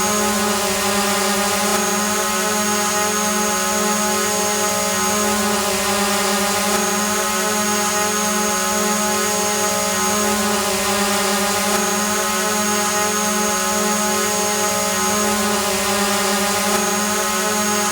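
Drone hovering: a steady propeller hum with a thin, high whine above it, its pitch holding level throughout.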